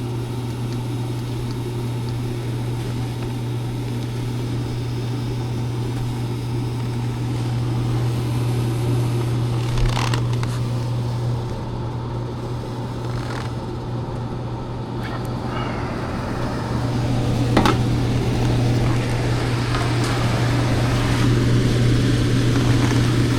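Furnace blower fan running steadily with a low hum, with a couple of brief knocks from handling about ten seconds in and again a few seconds later.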